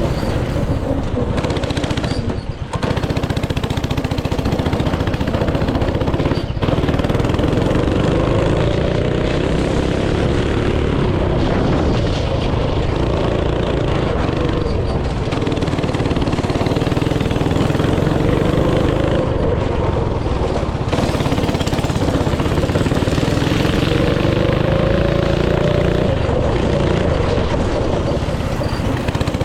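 Small single-cylinder engine of a yard go-kart or mini bike running hard, its pitch rising and falling as the throttle is worked, with brief dips about two and a half and six and a half seconds in.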